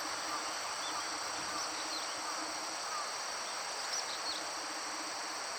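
Steady, continuous high trilling chorus of insects such as crickets, with a few short faint chirps over it.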